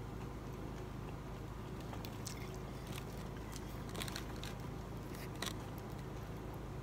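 Faint chewing of fried food, with a few light clicks and scrapes of a plastic fork picking through the food on the plate, over a low steady hum.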